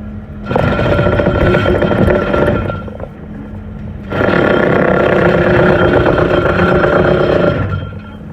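Small gasoline engine driving a water-jetting pump, idling and then throttled up hard twice, each time running at high speed for a few seconds before dropping back to idle.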